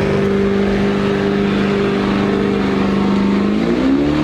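Vehicle engine running at steady revs, then rising in pitch as it revs up near the end.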